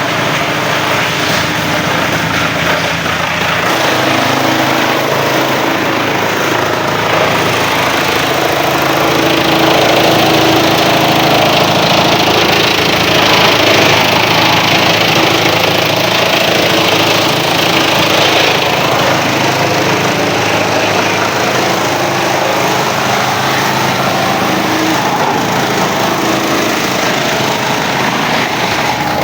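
Wood chipper machine running steadily under power, with a louder, harsher stretch in the middle.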